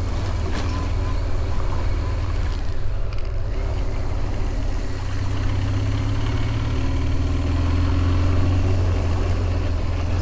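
BMW R1200GS (K25) motorcycle's boxer-twin engine running steadily while riding, under a heavy low rumble.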